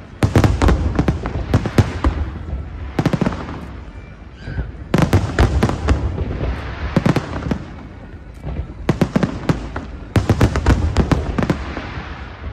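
Fireworks display: volleys of shells bursting in rapid bangs and crackles, with deep booms underneath. The volleys come about five times, with brief quieter gaps between them.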